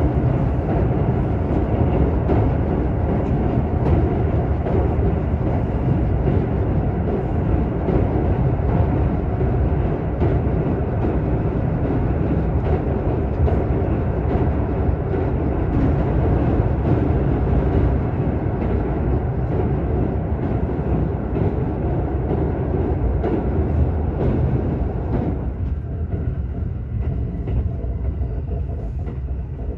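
Express train running at speed, heard from inside the carriage: a steady rumble of wheels on rails with many faint clicks. About 25 seconds in, the higher part of the noise drops away and it gets slightly quieter.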